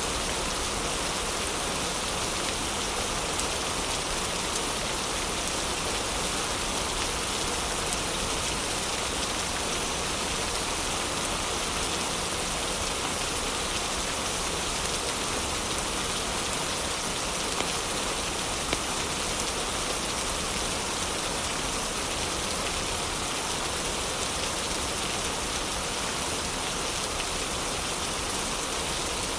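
Heavy rain falling steadily, with a few faint fireplace crackles and two sharper pops a little past the middle.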